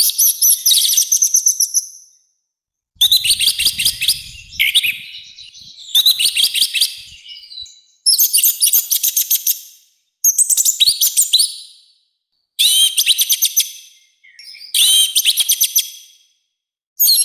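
Orange-headed thrush singing in loud, harsh phrases of rapid high notes, about eight phrases each lasting one to two seconds with short pauses between them.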